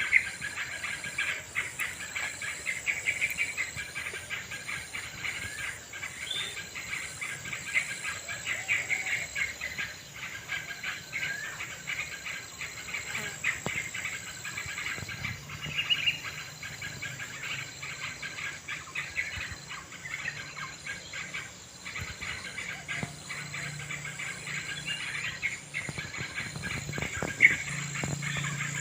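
A group of yellow-vented bulbuls (trocokan) chattering noisily, many bubbly calls overlapping without a break, over a steady insect drone that includes a high pulsing tone.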